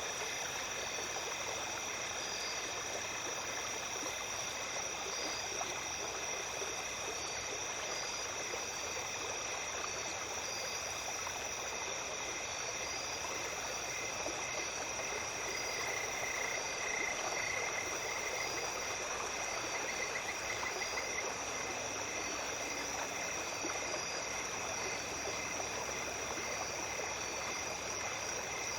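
Small creek babbling steadily, with insects singing over it: continuous high trills and a chirp that repeats all the while, one chirper growing louder for a couple of seconds about halfway through.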